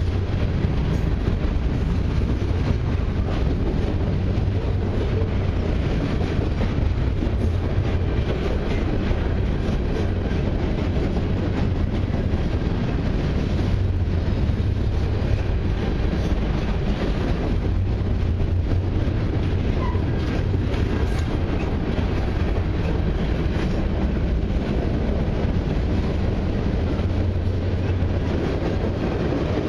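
Freight cars of a long freight train, high-sided gondolas, rolling steadily past: the continuous noise of steel wheels running on the rails.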